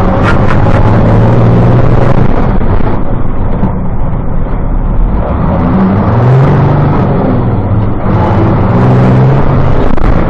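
Diesel engine running hard under acceleration, its deep note rising and falling twice as it revs, with a couple of sharp clicks right at the start.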